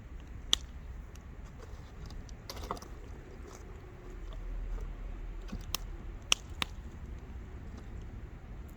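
Wood fire crackling: scattered sharp pops and snaps over a low, steady rumble. There is a pop about half a second in, a small burst of crackles around two and a half seconds, and the loudest snaps come three in quick succession between about six and seven seconds.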